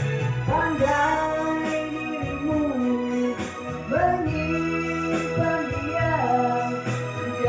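Music from a Malay-language pop song: a gliding lead melody over steady keyboard-style chords and bass.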